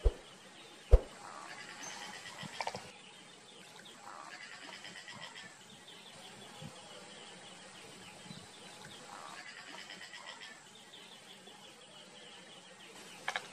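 Repeated rapid, chattering bird calls in phrases of about two seconds, separated by short pauses. Sharp clicks come at the start, about a second in, and near the end.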